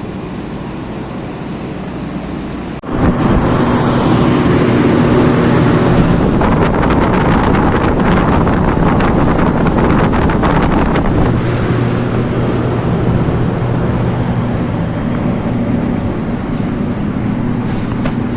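Air conditioner outdoor units running: a steady whoosh of fan air with a low hum and a faint high whine. About three seconds in it breaks off for an instant and comes back clearly louder, then holds steady.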